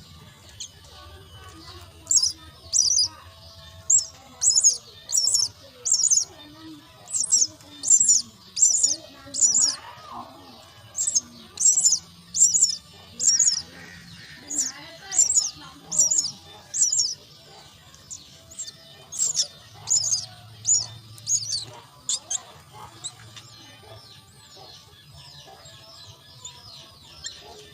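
Myna chicks giving high-pitched begging calls at feeding, a long series of short calls at about two a second that stops about twenty seconds in.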